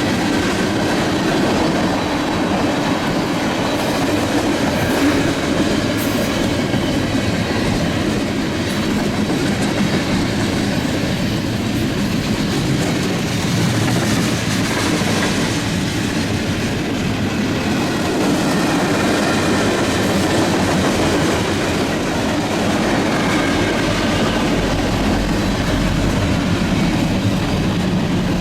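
Freight train rolling past at speed: a steady, loud run of steel wheels on the rails, with a low rumble growing stronger near the end.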